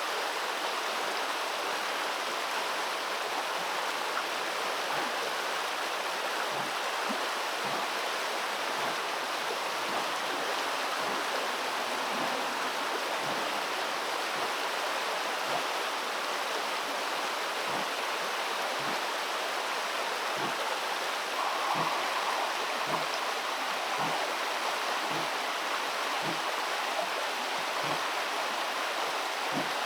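Steady rush of flowing river water, with faint scattered low knocks.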